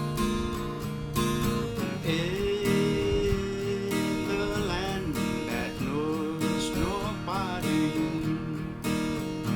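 Acoustic guitar strumming the accompaniment of a slow country song. From about two seconds in, a lead melody plays over it, sliding and bending between notes.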